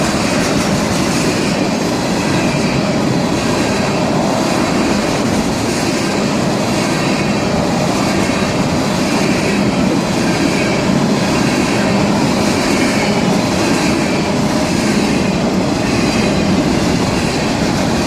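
Florida East Coast Railway freight cars rolling steadily past at close range, steel wheels rumbling and clattering on the rails.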